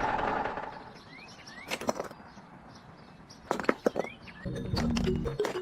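A small motor's whir fades out in the first second. Then come a few sharp clicks and short rising chirps, and music starts about four and a half seconds in.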